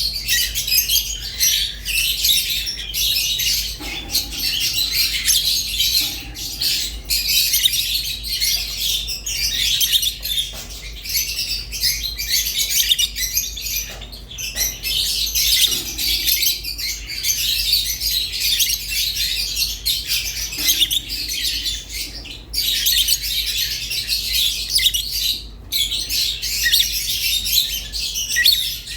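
Fischer's and rosy-faced lovebirds chirping and chattering without pause, a dense high twitter broken by squawks. A faint steady low hum sits underneath.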